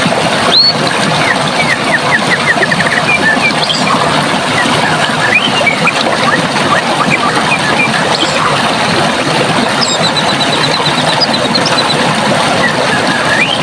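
Steady rush of running water, with small birds singing over it. There is a run of quick chirps about two seconds in, a fast high trill about ten seconds in, and a rising whistle near the end.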